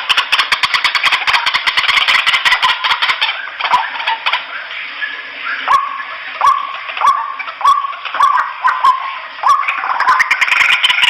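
White-breasted waterhens calling noisily: a dense, rapid chattering for the first few seconds, then a series of repeated rising call notes about every 0.6 s, building into overlapping calls near the end. This is the birds' flock call, which draws other waterhens to the sound.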